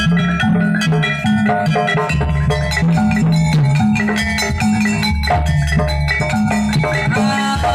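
Jaranan music for a horse-dance troupe: drums and gamelan-style tuned metal percussion play a busy rhythmic piece over a strong bass line.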